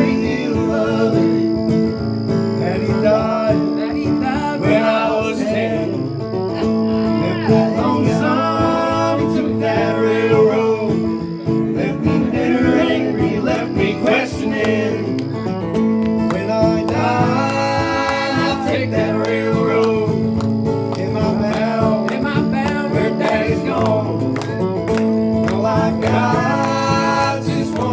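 Live country band playing an instrumental break: acoustic guitars strumming steady chords under a busy lead solo.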